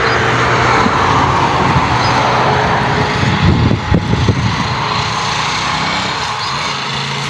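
A motor vehicle driving past: engine hum with tyre and road noise that swells over the first couple of seconds and then fades.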